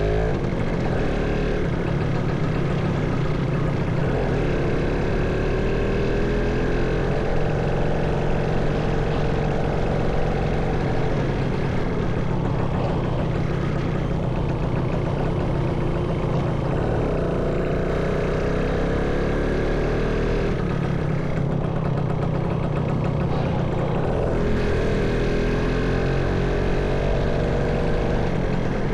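Motorcycle engine running on the move, its pitch climbing and dropping back several times as the bike accelerates and changes gear.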